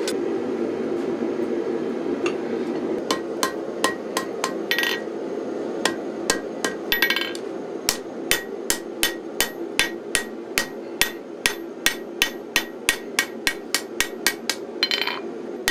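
Hammer blows shaping the hot tip of a 5160 spring-steel knife blade on the anvil, drawing out and rounding off the end. A few scattered strikes come first, then a steady run of about three ringing blows a second, over a steady low roar.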